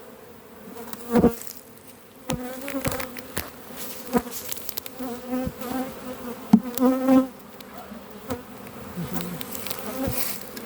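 Swarm of honey bees buzzing close around an open hive, many wing tones wavering up and down in pitch; the bees are stirred up by the hive being split. A few sharp knocks or clicks cut in over the buzzing.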